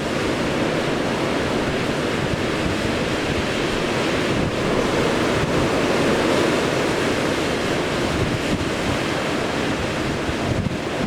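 Strong blizzard wind blowing hard over the microphone: a loud, steady rush with no let-up, swelling slightly midway.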